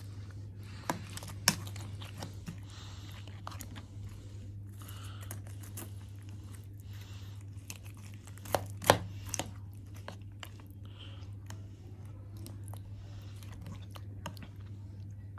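A person eating dahi bhalle: chewing, with small irregular clicks and a few sharp clicks, the loudest about nine seconds in, over a steady low hum.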